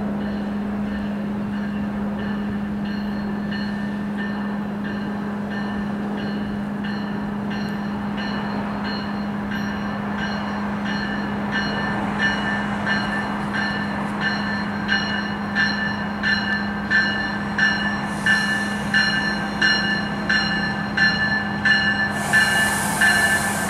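Train rolling past over a steady low hum, its wheels clicking over rail joints at a quickening, growing beat, with the rail ringing at each click; bursts of hiss near the end.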